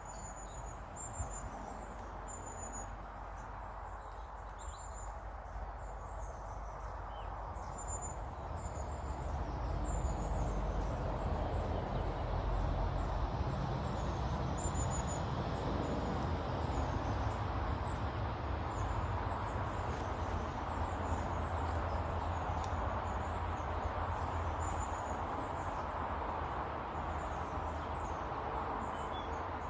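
Small garden birds chirping, with short high notes repeating every second or two. Under them a steady rushing noise with a low rumble grows louder about ten seconds in and is the loudest thing heard.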